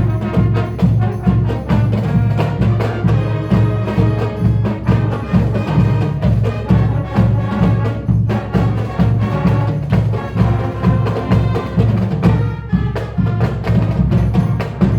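Marching band playing a piece, with percussion prominent: sharp wood-block-like clicks and drums on a steady beat over brass and bass.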